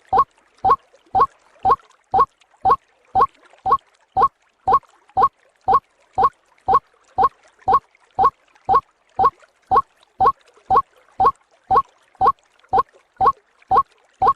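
White-breasted waterhen (ruak-ruak) calling, a short upturned 'ruak' note repeated monotonously about twice a second, as played for a bird lure.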